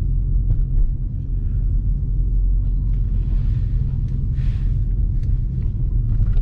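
Low steady rumble of a 2020 Dodge Scat Pack's 6.4-litre Hemi V8, heard from inside the cabin.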